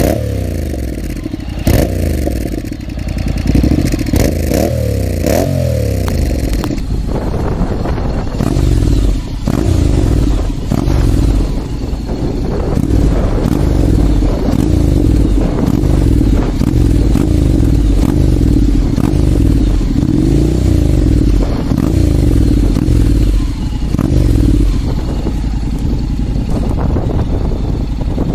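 Honda X-ADV 750's parallel-twin engine running through its exhaust, its revs rising and falling again and again.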